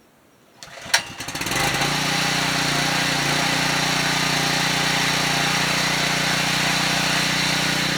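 Portable generator's small engine starting up: a sharp click about a second in, then it catches and settles into a steady run.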